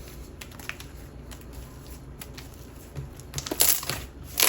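Hands squeezing and stretching a thick, chewy slime, giving faint clicks and then a burst of sharper crackling clicks over the last second and a half.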